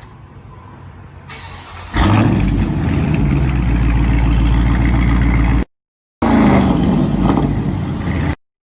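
Startup of a 2020 Dodge Charger Scat Pack's 392 Hemi V8 through a mid-muffler-delete exhaust. A short crank is followed by the engine catching loudly about two seconds in and running at a high, steady idle. After a brief cutout it is heard again with the revs falling.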